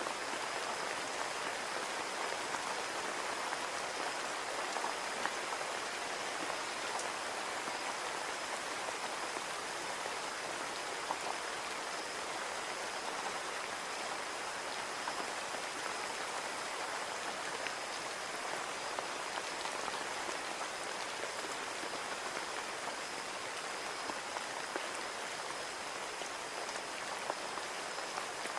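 Steady rain falling against a window pane: an even hiss with many small, sharp drop taps scattered through it.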